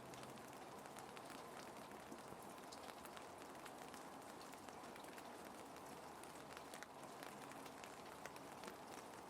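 Gentle ambient rain: a steady soft hiss with many small drops ticking.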